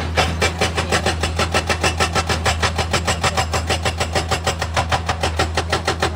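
Heavy machinery running, with a rapid, even knocking of about six or seven beats a second over a low steady hum.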